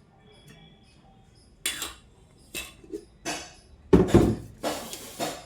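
Plates and cutlery at a meal clattering and scraping: about a second and a half of quiet, then a series of short, irregular clatters, the loudest about four seconds in.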